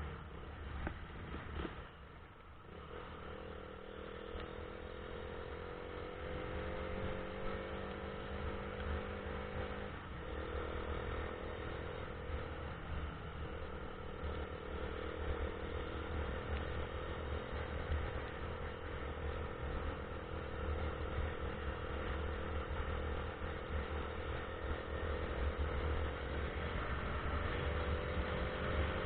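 Vehicle engine running steadily while driving, its pitch rising gently near the end, over a steady low rumble and hiss.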